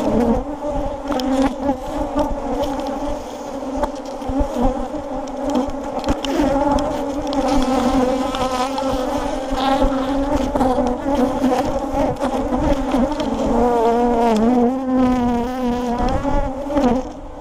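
Honeybees buzzing around an opened hive: a steady, dense hum of many wingbeats whose pitch wavers slightly throughout.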